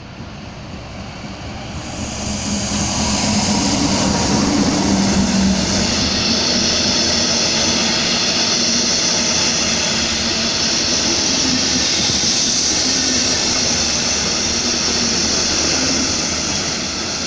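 Locomotive-hauled passenger train of alex coaches running past along the platform: the locomotive's engine and then a steady rush of wheels on rail as the coaches go by. It grows loud about two seconds in and stays loud.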